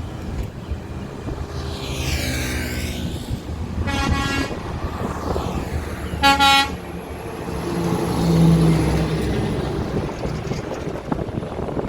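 Two short horn toots from heavy machinery, about four and six seconds in, the second louder, over the steady running of heavy diesel engines; an engine revs up around eight seconds in.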